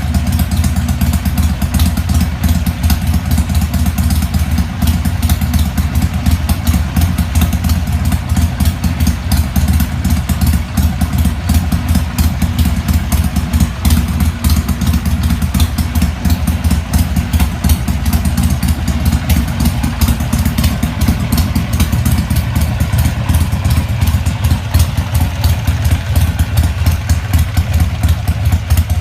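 2007 Harley-Davidson Sportster Nightster's 1200 cc air-cooled V-twin idling steadily with a loud, even low-pitched lope and no revving.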